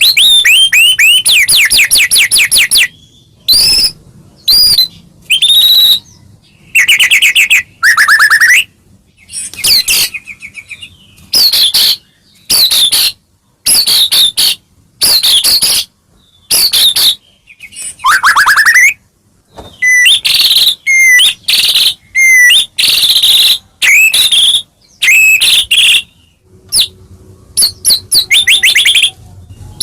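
White-rumped shama singing loudly: a steady run of short, varied phrases of clear whistles and fast trills, many sweeping down in pitch, each phrase under a second with brief pauses between.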